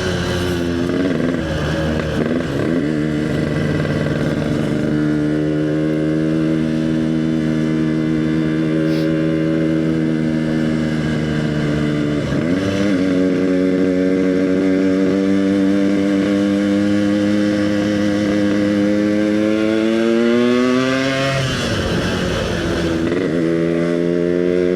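Yamaha RX-King's two-stroke single-cylinder engine under way, its note climbing slowly as the bike speeds up. The note drops sharply at each gear change, about a second in, about 12 seconds in and about 21 seconds in, then climbs again.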